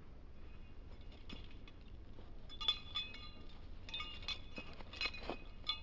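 Light metallic clinking and jingling, faint at first, then in a few short bursts of ringing clinks from about two and a half seconds in.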